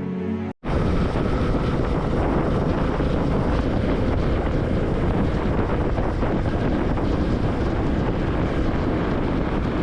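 Wind rushing over the microphone of a moving motorcycle, with engine and road noise underneath, steady throughout the ride. Background music cuts off about half a second in.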